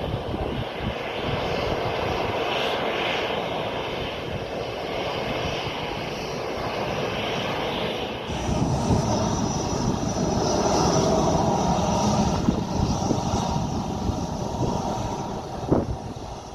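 Jet airliner's engines running as it passes: a steady roar that swells about eight seconds in, with a thin high whine on top, then fades near the end.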